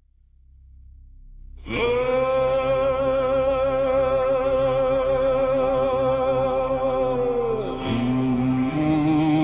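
Song intro: a low rumble swells in, then a wordless voice holds one long note with vibrato, and about six seconds later drops to lower notes.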